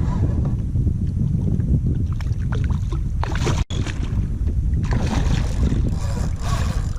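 Wind buffeting an action camera's microphone: a steady low rumble, with louder hissing gusts about three seconds in and again from about five seconds to nearly seven. The sound drops out for an instant just before four seconds.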